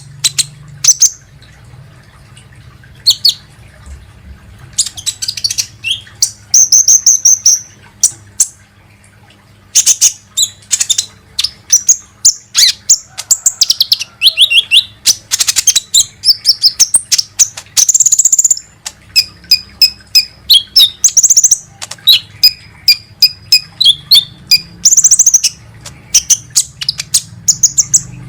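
A sunbird (the 'kolibri ninja') calling: loud, rapid, high-pitched chirps and short twittering trills in bursts, with a couple of brief pauses. This is a lure call recording of the kind played to draw out or set off other birds.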